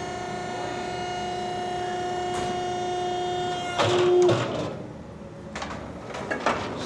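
Selco V15 vertical baler's hydraulic power unit running with a steady electric hum as the ram moves. A little before four seconds in it runs louder and higher for about half a second, then cuts off, and a few light knocks and clanks follow.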